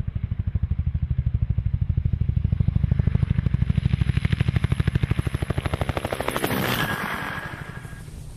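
Helicopter rotor chopping in a fast, even beat of about a dozen thumps a second. Near the end it gives way to a rushing swell with a thin high whine, which fades out.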